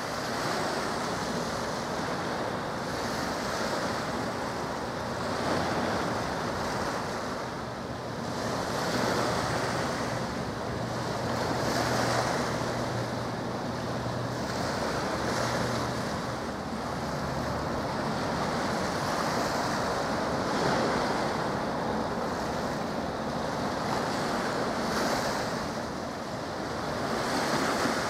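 Wind buffeting the camcorder microphone over the wash of water, swelling and easing every few seconds. A faint low steady hum comes in for several seconds around the middle.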